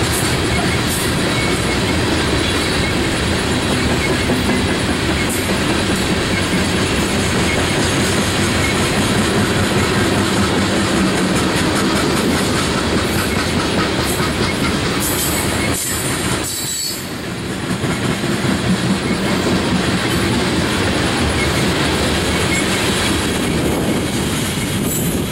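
Loaded coal gondolas of a unit freight train rolling past, a steady loud rumble of steel wheels on rail with clickety-clack over the rail joints. There are brief high wheel squeals about two-thirds through and again near the end.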